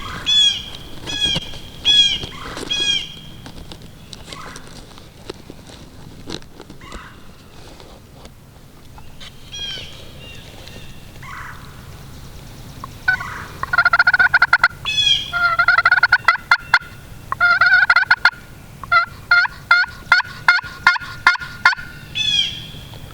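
Wild turkey calling: a run of short falling yelps, then repeated loud, rattling gobbles through the second half, with a few more yelps near the end.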